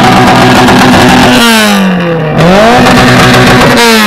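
A car engine held at high revs, its pitch falling as the revs drop about a second and a half in, then revved back up and held before falling again near the end.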